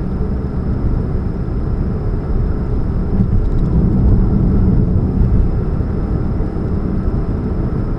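A 2013 Chevrolet Spark running with a steady low rumble and hum. The owner puts this hum down to an exhaust leak at the catalytic converter.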